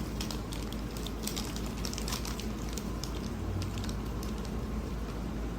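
Kitten eating from a dish: soft, wet chewing with many small scattered clicks, over a steady low hum.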